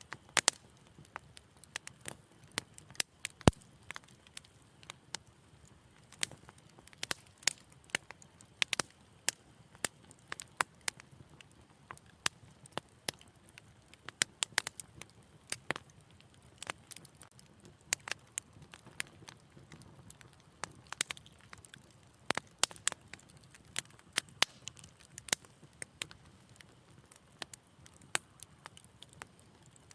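Wood fire in a fireplace crackling: irregular sharp pops and snaps over a faint low rumble, with one louder pop a few seconds in.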